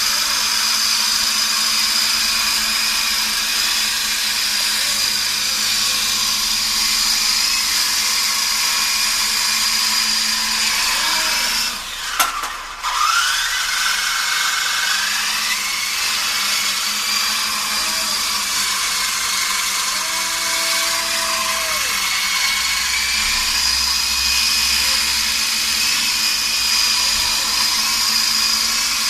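RC helicopter's motor and rotor whining steadily at a high pitch. About twelve seconds in it dips with a sharp click, then its pitch glides back up over a few seconds.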